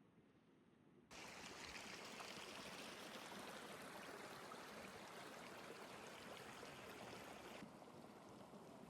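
Steady water noise, an even hiss, cutting in suddenly about a second in after near silence and easing a little near the end.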